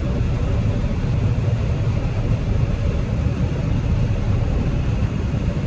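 Combine harvester running steadily while harvesting wheat, heard from inside the cab: an even, low engine and machinery drone.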